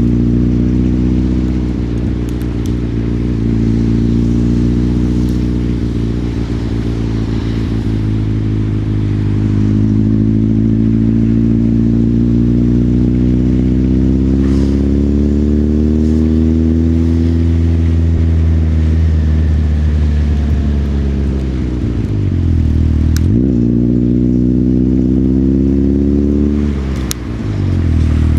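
Motorcycle engine running under way, its pitch rising and falling with the throttle. It drops sharply and climbs again about two-thirds of the way through, and once more near the end, as on gear changes.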